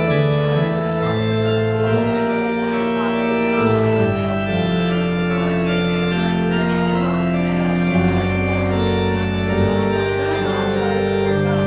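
Organ playing the postlude that closes a church service: held chords over a slowly moving bass line.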